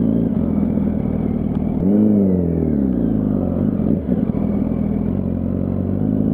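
Yamaha R1's inline-four engine running while riding, with a brief rise in pitch about two seconds in that sinks away over the next second or so.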